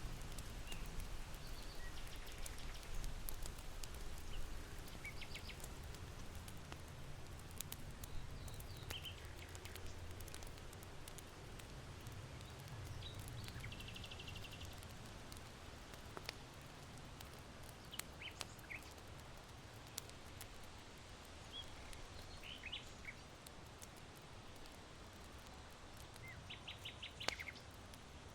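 Charcoal in an irori hearth crackling with scattered sharp pops, one louder near the end. Small birds give short chirps and trills every few seconds over a low wind rumble that eases off in the second half.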